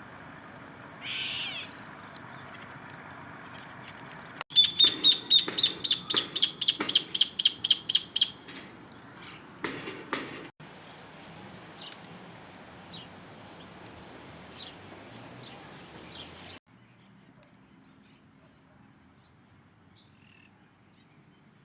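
A bird calling: a short call, then a rapid run of about a dozen loud, repeated high notes lasting about four seconds, and a couple more calls after it. Faint chirps follow over a steady outdoor hiss.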